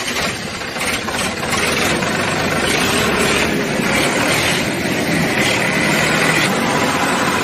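Steady engine running noise, a little quieter for the first second and then holding an even level.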